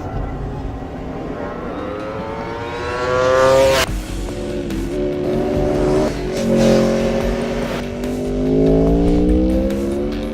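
Aprilia RSV4 superbike's V4 engine accelerating hard, its pitch climbing for a few seconds, dropping abruptly about four seconds in, then climbing again.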